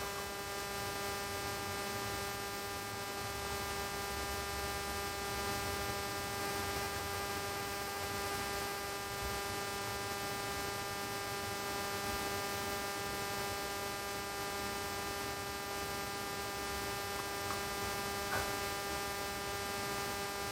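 Steady electrical hum made of a stack of even tones over faint hiss, unchanging throughout, with a faint tick about eighteen seconds in.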